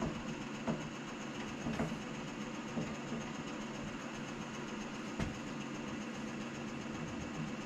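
Steady electric motor hum from workshop machinery, with a few short, light knocks.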